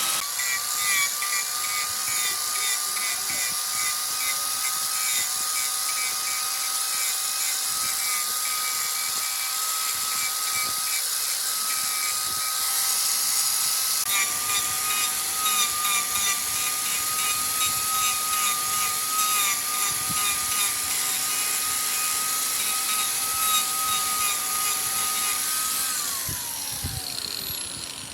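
Wood lathe running, its motor giving a steady whine over a high hiss. Near the end it is switched off and the whine falls in pitch as it spins down.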